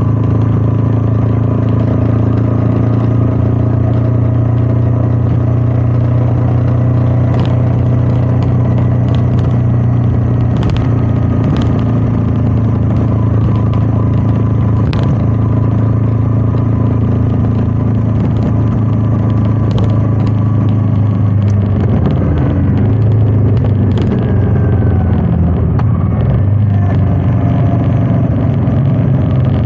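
Royal Enfield Meteor 350's single-cylinder engine running at a steady pace on the move, with wind on the microphone. About twenty-one seconds in, the engine note wavers and shifts for a few seconds, then settles again. A few sharp clicks are heard along the way.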